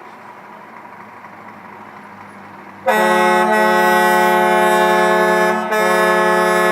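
Scania truck air horns blaring, starting suddenly about three seconds in as a loud held multi-tone chord, with a brief break before sounding again near the end.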